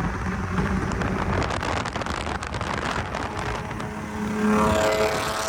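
A car engine running hard at a drag strip, under a dense rush of noise. About four seconds in, a steady engine tone comes up and grows louder, then fades near the end.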